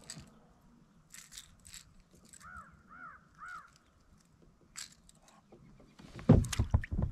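A bird calls three times in quick succession, each note rising and falling, among light clicks and rattles. Near the end come several loud thumps and knocks close to the microphone.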